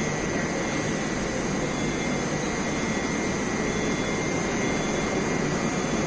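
Steady, even rumble and hiss of an underground metro station's ambience, with a faint steady high tone running through it.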